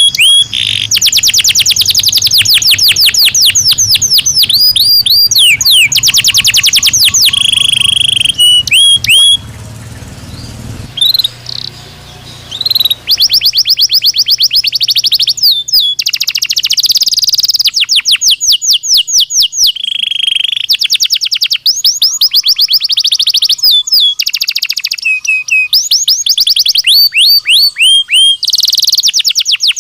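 Domestic canary (Belgian canary) singing a long song of fast trills, rapid runs of repeated notes alternating with steady held whistles. There is a brief quieter pause about ten seconds in.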